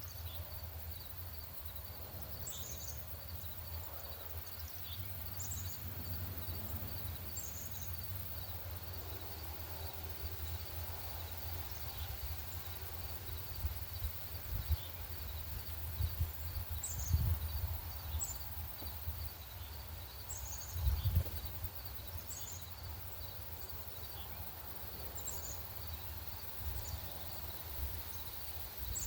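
Small songbirds giving short, high chip notes every second or two, over low wind rumble on the microphone that gusts up a few times. A faint, even pulsing in the background runs underneath.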